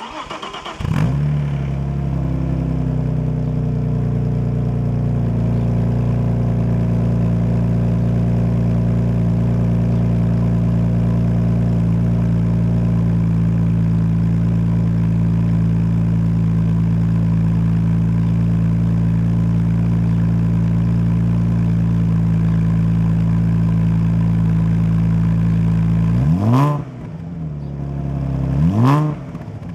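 Volkswagen Passat B5's 2.8 V6 with a custom exhaust starting up and catching within about a second, then idling steadily. Near the end it is revved twice in quick blips, the pitch rising and falling each time.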